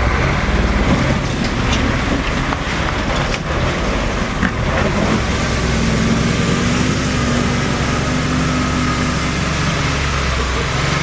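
Engine of an off-road trial truck running steadily, with a pitched engine note holding through the middle of the clip and a few sharp knocks in the first seconds.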